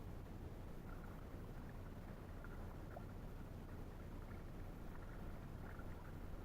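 Faint water sounds of an inflatable canoe being paddled on a river, with a few light splashes over a steady low rumble.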